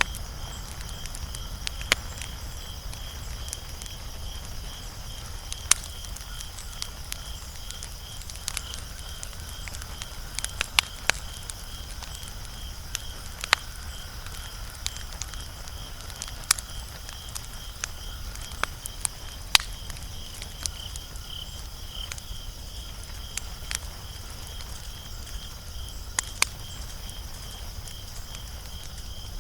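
Wood fire crackling, with sharp pops at irregular intervals, a few every couple of seconds, over a low steady rumble. A steady, finely pulsing high trill runs underneath.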